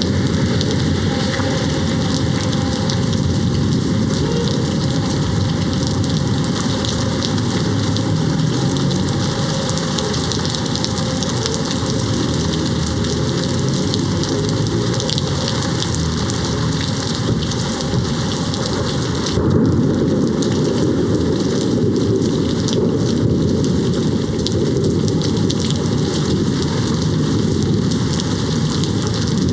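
Steady rain on a window with low thunder rumbling. About two-thirds of the way through, the sound turns deeper and slightly louder as the high hiss drops away.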